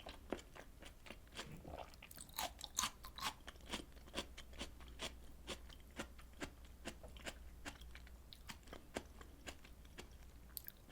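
Close-miked chewing of grilled beef and pork intestines: rapid wet mouth clicks and smacks, busiest a couple of seconds in and thinning out near the end.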